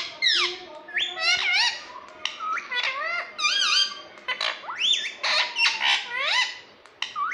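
Pet parrot making a rapid string of short, squeaky whistled calls that sweep up and down in pitch, with barely a pause between them.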